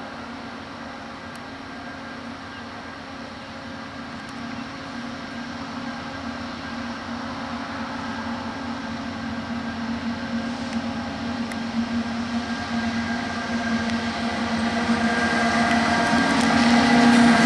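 Diesel freight train approaching, its engine drone growing steadily louder.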